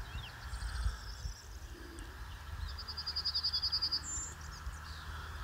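Songbirds singing outdoors, with short scattered chirps and, a little under three seconds in, one bird's rapid trill of about a dozen even notes, the loudest sound. A low uneven rumble runs underneath.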